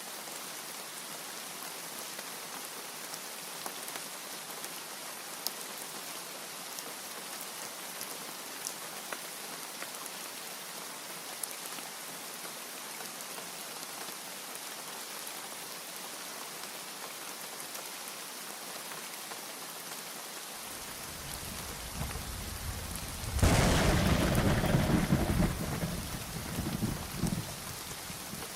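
Steady heavy rain with scattered drip ticks. About three-quarters of the way through, a low thunder rumble builds into a loud clap that rolls on for several seconds and dies away near the end.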